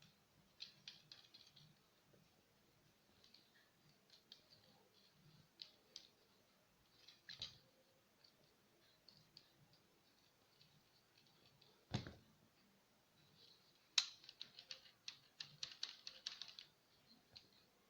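Faint clicks and taps of small parts being handled, with a dull thump about twelve seconds in and a sharp click near fourteen seconds, followed by a quick run of clicks.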